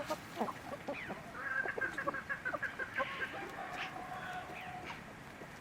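Several chickens clucking: a run of short, quick calls overlapping one another, with one longer held note about halfway through.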